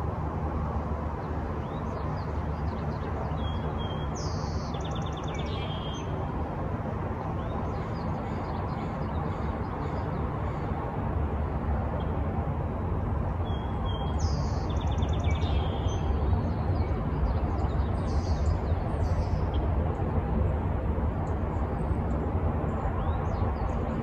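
Outdoor morning ambience: a steady low rumble, with a songbird singing the same short phrase twice, about ten seconds apart, and a few faint chirps in between.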